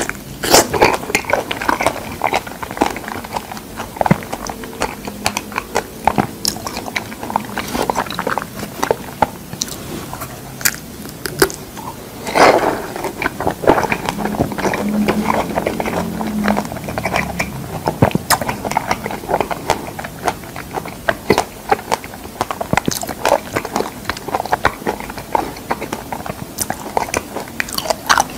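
Close-miked mouth sounds of someone chewing soft, ripe fresh figs: wet, squelchy chewing with frequent irregular clicks and smacks.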